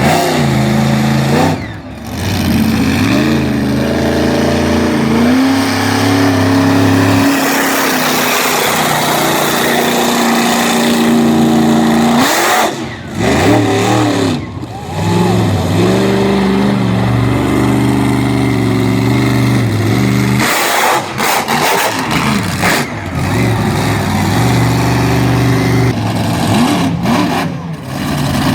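Monster truck engine running loud, revving up and down over and over, with a few brief drops when the throttle comes off.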